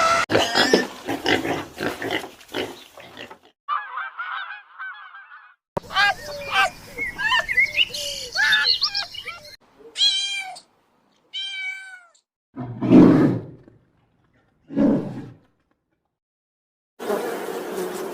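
A string of short, separate animal calls of different kinds, cut one after another with brief gaps: chattering and warbling calls, then two clear high pitched calls, then two loud low calls.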